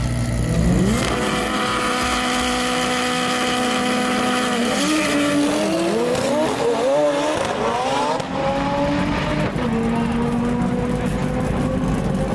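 High-horsepower manual-transmission drag car running at full throttle. The engine's pitch climbs sharply about half a second in and holds high, wavers through the middle, and dips briefly about eight seconds in before holding steady again.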